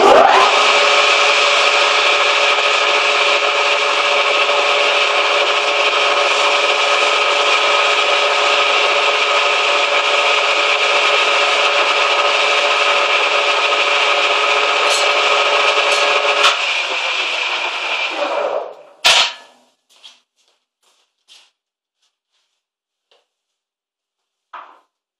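Manual lathe running and turning a bushing: a loud, steady cutting noise with several steady machine tones. The tones drop out about 16 seconds in and the rest dies away a couple of seconds later, followed by a sharp click and a few faint ticks.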